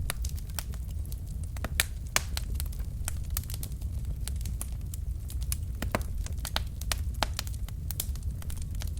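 Wood fire burning in a fireplace: logs crackling with irregular sharp pops and snaps over a steady low rumble of the flames, a few pops louder than the rest.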